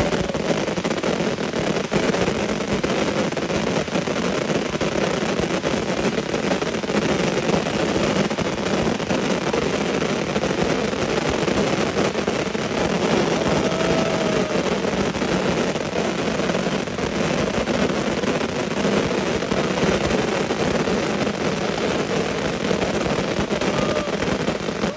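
A dense, unbroken barrage of shots from many firework cakes going off at once, the bangs running together into a steady crackling rumble, with a few faint whistles now and then.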